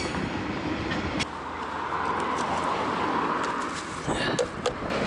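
A passing vehicle whose noise swells and fades around the middle, with a few sharp clicks near the end.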